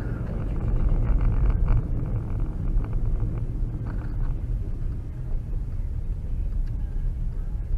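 Low, steady rumble of a car on the move, with engine and road noise strongest in the lows and some faint rattling in the first few seconds.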